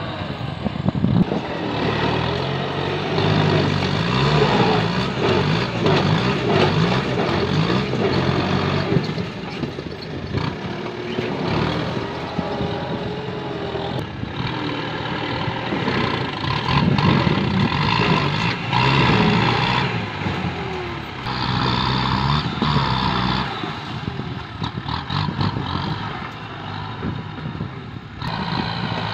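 Kubota M8540 tractor's diesel engine working under load, its revs rising and falling.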